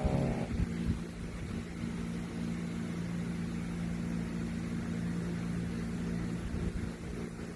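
The tail of a dog's loud snore in the first half second, then a steady low hum for the rest.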